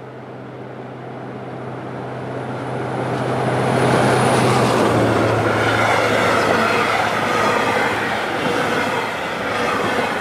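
Diesel passenger train approaching and passing close by. Its low engine hum drops in pitch as the front goes past about five seconds in, then the coaches' wheels rumble steadily over the rails.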